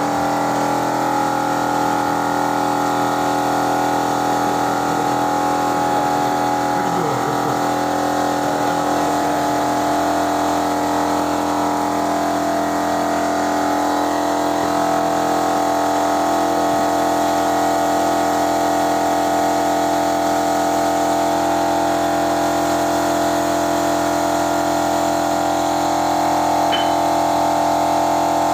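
A motor-driven machine running steadily, a constant whine of several tones with no change in speed.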